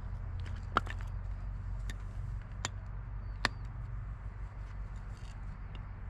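A few sharp clicks and knocks over a steady low hum.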